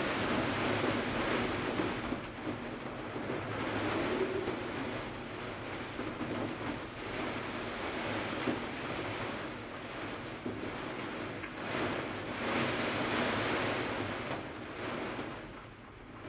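Typhoon wind gusting: a rushing noise that swells and eases every few seconds.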